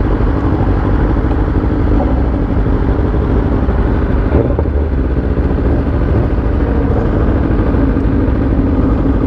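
Motorcycle engine running at a steady, even speed while riding, with road and wind noise.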